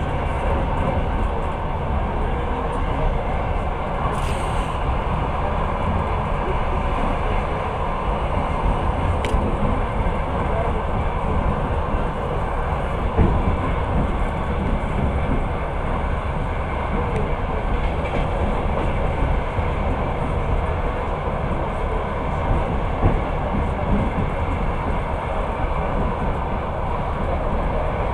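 Passenger train running at speed, heard from inside the carriage: a steady rumble of wheels on rails, with a few light clicks and a louder knock about thirteen seconds in.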